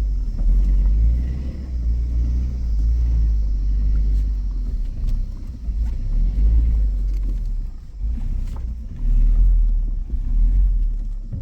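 Suzuki Jimny heard from inside the cabin, crawling over a rough, rocky dirt track: a deep, uneven rumble of engine and suspension, with a few sharp knocks from the wheels hitting rocks.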